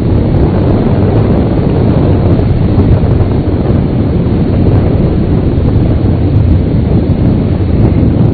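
Loud, steady low rumble of the Boeing 747 Shuttle Carrier Aircraft's jet engines on approach, mixed with wind buffeting the outdoor microphone.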